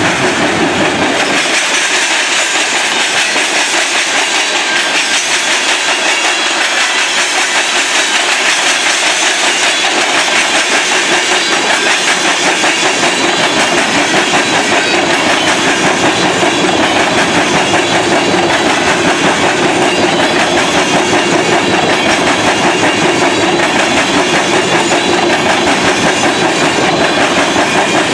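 Railroad cars rolling steadily past, a continuous rumble and clatter of steel wheels on the rails.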